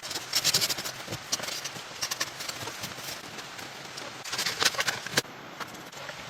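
Clusters of rapid, hard knocks and clicks in three bursts, the loudest burst about four and a half seconds in.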